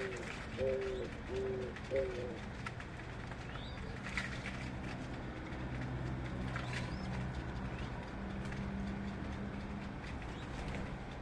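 A dove cooing: four short low notes in the first two seconds, then faint high chirps of other birds over a steady low hum.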